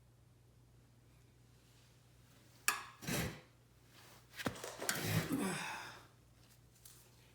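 Metal parts and tools being handled: a sharp click about two and a half seconds in, then a short clatter, another click, and over a second of clinking and rubbing.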